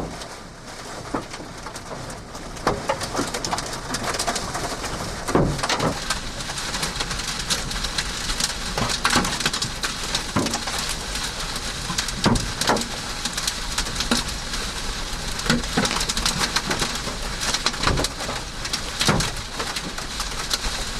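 Baseball-sized hail pounding on a car's roof and body, heard from inside the car: a dense, unbroken clatter with many loud separate bangs from the biggest stones.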